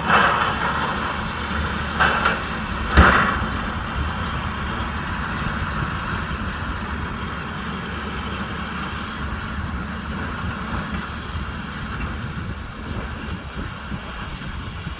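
Kubota M125X diesel tractor running steadily while working a baler, with a steady mechanical drone. Three short loud clatters come in the first three seconds.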